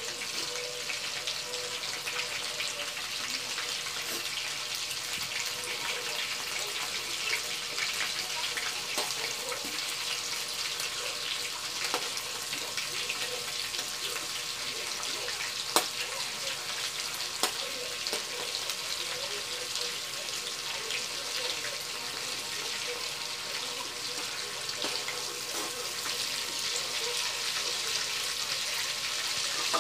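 Shrimp frying in hot oil in a metal wok: a steady sizzle with constant small crackles and spits. A couple of sharper clicks about halfway through come from the metal spatula against the wok as the shrimp are turned.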